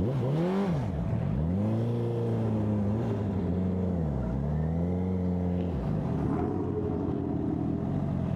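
Motorcycle engine pulling up and easing off several times. Its pitch rises in the first second, climbs again and holds around two to four seconds in, dips, rises again about five seconds in, then drops away near six seconds.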